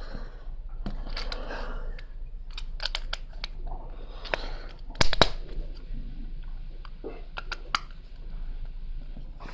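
Plastic Lego pieces being handled and pressed together: rustling with scattered sharp clicks, the loudest a quick cluster of clicks about five seconds in.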